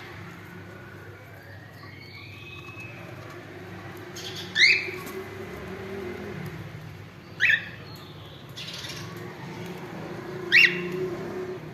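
Cockatiel calling: three short, loud chirps, each sweeping upward in pitch, about three seconds apart, over a steady low hum.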